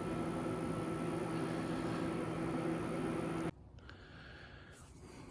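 A motor vehicle engine running steadily with a low, even hum. It cuts off abruptly about three and a half seconds in, leaving only faint background noise.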